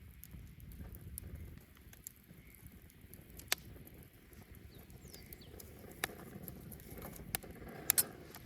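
Wood bonfire crackling, with a low rumble in the first second or so and a handful of sharp pops scattered through, two loud ones close together near the end.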